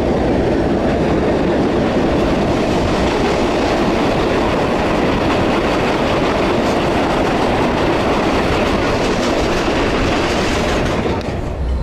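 PeruRail passenger train running along the track: a steady rumble of wheels on rails, heard through an open carriage window. It eases slightly near the end.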